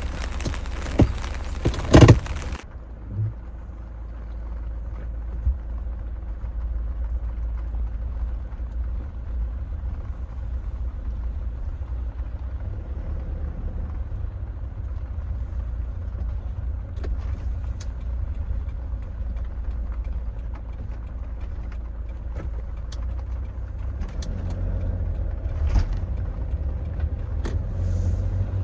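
Rain hissing for the first couple of seconds, with a sharp knock about two seconds in. It cuts off suddenly to the steady low rumble of a vehicle on the move, which swells a little near the end.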